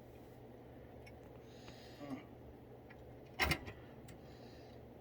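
A single sharp knock about three and a half seconds in, from the table hardware being handled while a nut and washer are fitted on the frame, over a steady low hum.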